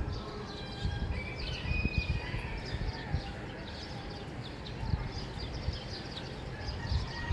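Many small birds chirping and trilling at once over a steady low background rumble.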